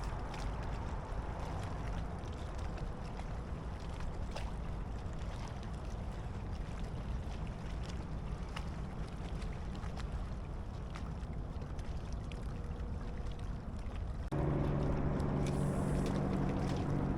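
Steady low wind and water noise around a fishing kayak, with a few faint clicks. About 14 seconds in, a steady mechanical hum starts abruptly and carries on.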